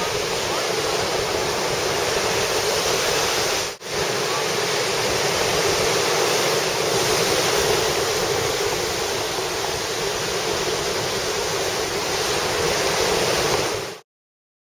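Steady rushing water, with a brief break about four seconds in, cutting off suddenly near the end.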